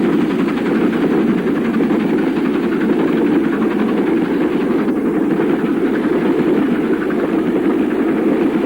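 Steam locomotive working hard with a heavy express train at speed: a steady, loud rush of exhaust and running noise with no break.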